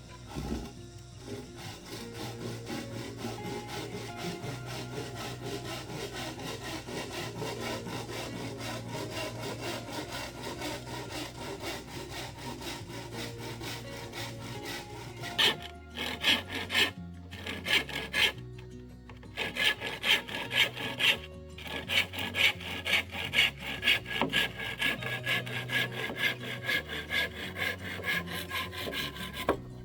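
Hand saw cutting wood with regular back-and-forth strokes, about two a second, sharpest and most distinct from about halfway on.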